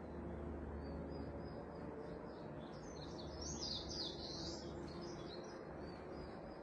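Bird chirping: a quick run of short, high chirps through the middle, over a steady low hum.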